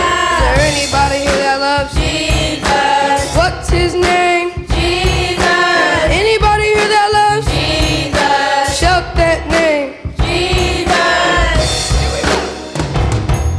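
Live gospel praise music: a group of voices singing over a band with drums and bass.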